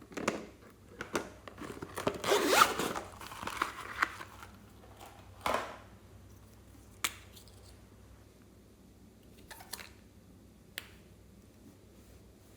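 Slime being handled by hand, stretched and pressed, making crackly tearing and squishing noises, loudest about two to three seconds in. After that come a few scattered sharp pops and clicks.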